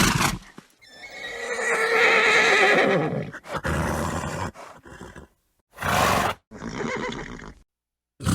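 Horse neighing: one long, wavering whinny about a second in, then a lower call, followed by a few short breathy snorts, each cut apart by silence.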